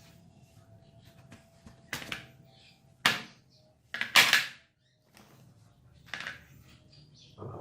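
Short scraping strokes of hand work on metal pliers: four brief, noisy scrapes, the loudest about four seconds in, with quiet between them.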